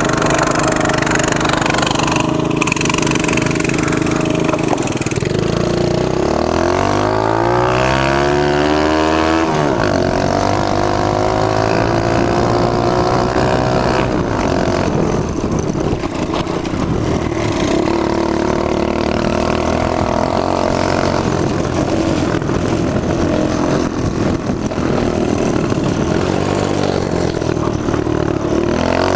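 Small single-cylinder mini bike engine under way: the revs climb in a rising pitch from about six seconds in, then hold mostly steady, and start climbing again near the end.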